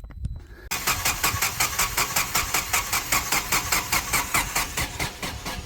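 Generac standby generator engine cranking over on its starter, starting about half a second in, with a steady rhythmic chug of about five or six pulses a second.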